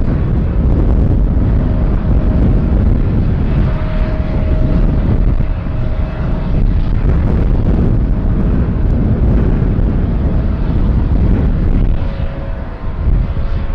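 Jet airliner engine noise at close range: a loud, steady rumble with a faint whine, dipping briefly near the end.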